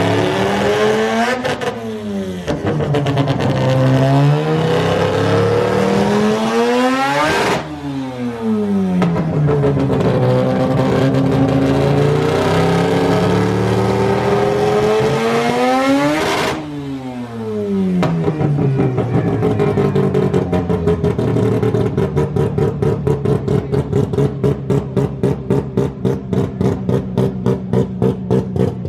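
Rotary (Wankel) engine revved hard twice: the pitch climbs, then breaks off sharply and falls away. It then settles into a choppy, pulsing idle at about two beats a second, the 'brap' of a rotary.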